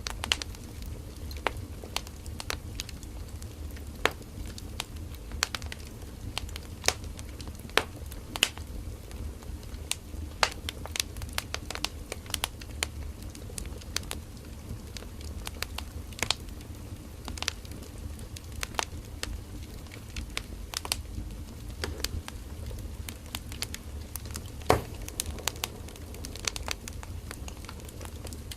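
Firewood burning in a campfire: irregular sharp crackles and pops, a few a second, over a steady low rumble of the flames.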